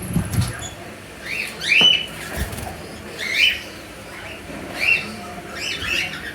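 A small bird chirping: short, arched chirps repeated every second or so, with a brief low flutter at the very start.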